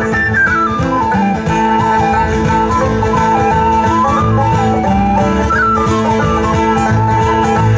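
A live traditional folk band playing a lively dance tune from a set of hornpipes and reels. An ornamented melody line runs continuously over plucked-string accompaniment.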